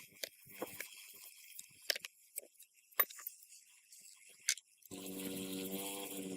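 Scattered sharp clicks and knocks of metal parts being handled during an engine rebuild, then a steady machine hum that starts suddenly about five seconds in.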